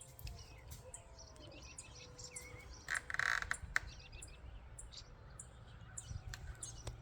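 Small bird chirping in many short, high calls, with one louder, harsher burst about three seconds in, over a steady low rumble.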